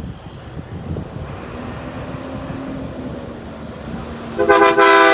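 A truck's air horn sounds one loud, rich multi-tone blast near the end, over the low rumble of engines and traffic.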